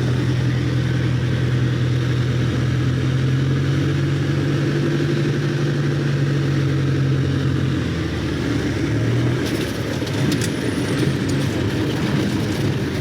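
Carbon Cub light aircraft's engine and propeller running steadily at low power. Its note changes about eight seconds in, and a few faint clicks and rattles follow.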